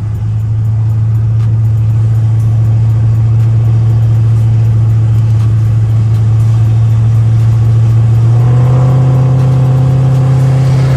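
Dodge Charger R/T's 5.7-litre Hemi V8 droning steadily inside the cabin while driving, its pitch creeping slowly upward. About eight and a half seconds in, the engine note steps up in pitch and grows fuller and louder.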